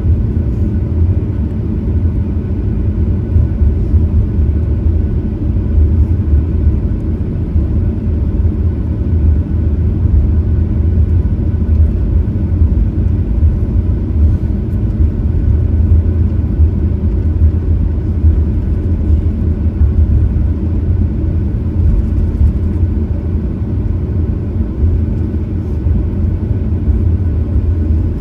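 Steady low rumble of a Boeing 737-900ER with its CFM56-7B turbofans running, heard inside the passenger cabin; the level and pitch hold even throughout.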